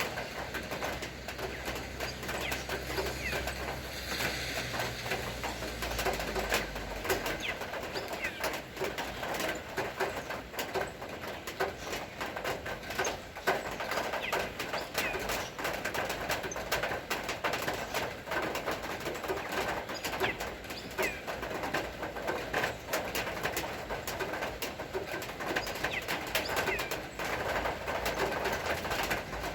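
Birds calling, doves cooing among them, over a dense patter of irregular ticks. A low hum fades out about seven seconds in.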